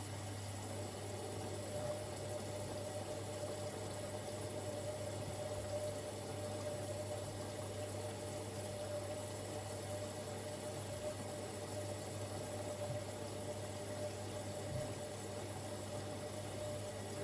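Siemens Extraklasse XLs 140 A washing machine taking in water at the start of a wash: a steady rush of water with a constant low hum.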